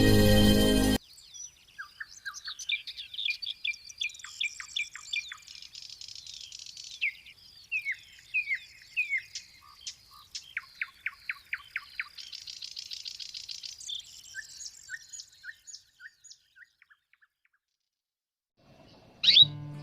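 Canary singing: a long run of high chirps and quick down-sweeping notes, with fast buzzing rolls around the middle of the song. Music plays for about the first second.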